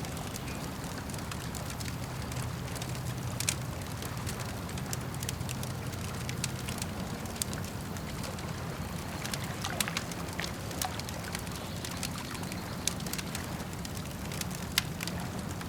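Wood campfire crackling, with irregular sharp pops scattered through, over a steady low rumble.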